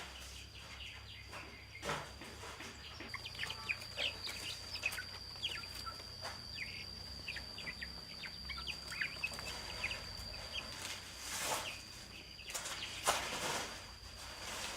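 Birds chirping in many short, quick calls, over a steady high-pitched whine, with a few brief swishing noises near the end.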